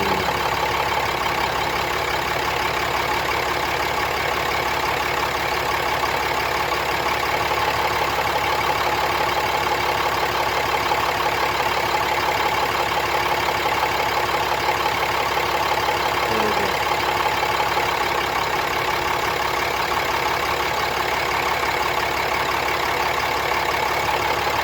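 2017 Ram 3500 engine idling steadily with a rattle, while a scan tool cuts out one injector for five seconds at a time, twice, to trace where the rattle comes from.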